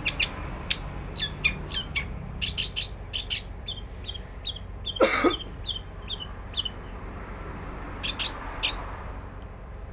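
A small songbird chirping a quick series of short, sharp notes that thins out after about seven seconds, with a brief loud knock or rustle about five seconds in.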